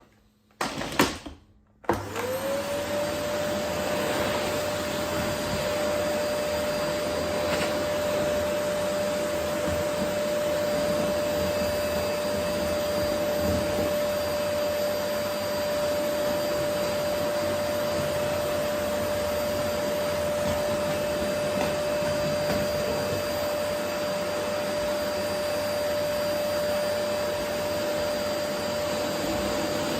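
Vacuum cleaner switched on after a couple of short knocks: about two seconds in the motor spins up quickly to a steady whine over the rushing air, then runs evenly.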